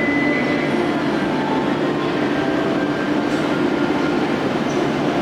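Shinkansen train pulling out of the station, a steady running noise with a faint high whine that fades after the first second.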